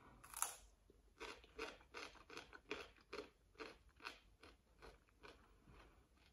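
Faint crunching of sliced fresh cucumber being eaten: one bite about half a second in, then steady chewing at about two to three crunches a second, fading out near the end.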